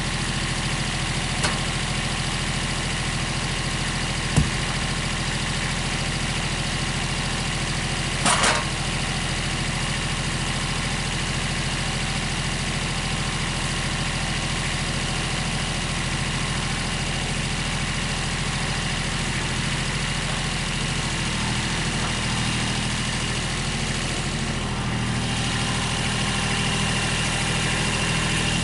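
An engine idling steadily, with a few sharp knocks in the first third. Its pitch shifts and it picks up slightly in the last few seconds.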